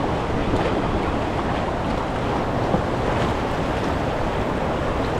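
Steady rush of fast-moving river water in a dam's tailwater, with wind on the microphone.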